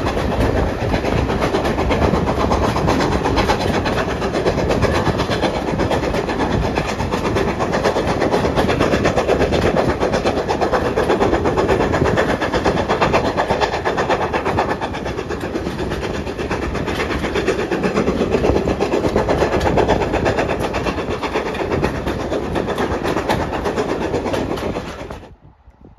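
Passenger coaches of a steam-hauled heritage train running along the line, heard from an open carriage window: a loud, steady rush of wheel and rail noise. It cuts off suddenly near the end.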